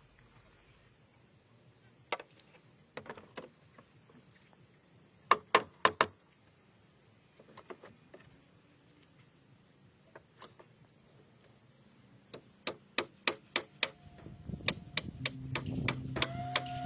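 Scattered sharp knocks of a tool striking bamboo, becoming a steady run of about three strikes a second in the last few seconds, over a steady high insect drone. Background music fades in near the end.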